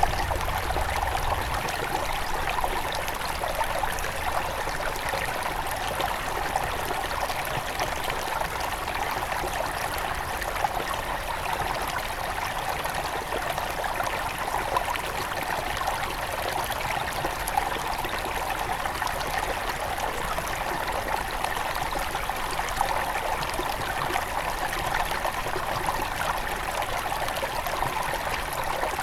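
Small river at its headwaters flowing and babbling over stones, a steady even rush with trickling and bubbling.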